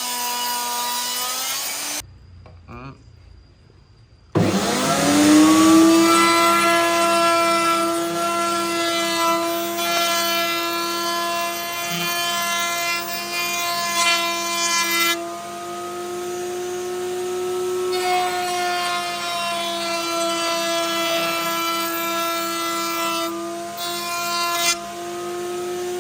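Electric woodworking machine whining as it slows and stops about two seconds in. After a short quieter gap it starts again, its whine rising quickly to a steady high pitch that runs on, dipping slightly now and then under load as it works wood.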